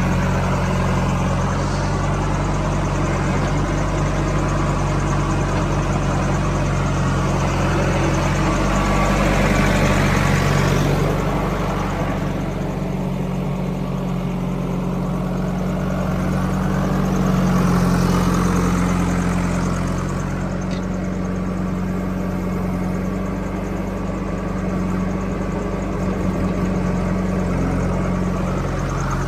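Heavy diesel engine running steadily, swelling louder twice, once about a third of the way in and again a little past the middle.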